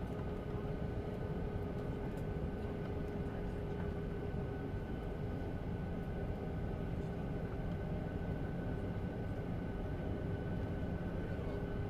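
Boeing 737-800's CFM56-7B jet engines running steadily, heard from inside the cabin: an even rumble with a steady hum and a fainter whine above it, both held at one pitch.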